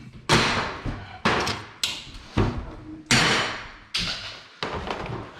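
Metal scaffolding parts clanking as they are handled and set down during dismantling: a series of about seven separate knocks, each ringing briefly.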